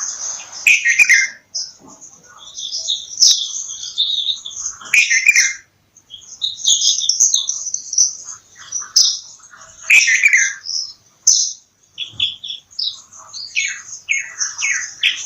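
Bulbuls chirping and calling in quick, overlapping strings of short notes, with a louder falling call every few seconds.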